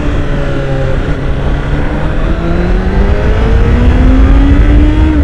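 Honda CBR1000RR SP's inline-four engine under a ride, through its stock exhaust. The engine note holds low for about two seconds, then rises steadily as the bike accelerates, over a heavy rumble of wind.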